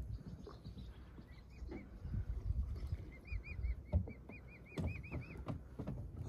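A bird calling a run of short, high chirps, about three a second, louder toward the middle, over a low rumble with a couple of knocks.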